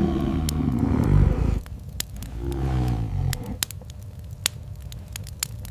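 Wolf growling low twice: a long call at the start and a shorter one about two and a half seconds in that falls in pitch. Sharp crackles of a wood fire are scattered throughout.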